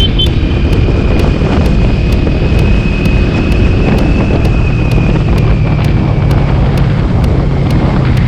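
Honda CB400 inline-four motorcycle engine running steadily, with wind buffeting the microphone. A steady high whine sits over it for about the first six seconds, then fades.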